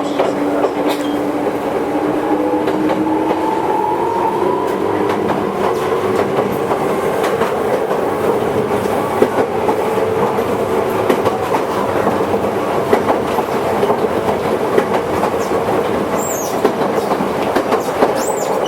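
Former-Tokyu Toyohashi Railway 1800 series electric train running, with a steady rumble and wheels clicking over rail joints. A motor whine rises in pitch through the first several seconds as the train picks up speed, and there are a few brief high wheel squeals near the end.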